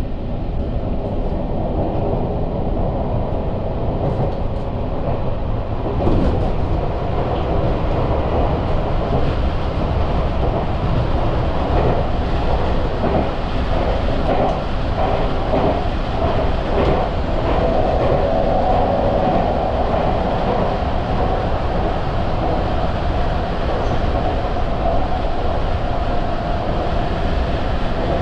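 Sagami Railway electric commuter train running, heard from on board: a steady rumble and hum, with a run of wheel clicks over rail joints through the middle and the hum swelling a little past halfway.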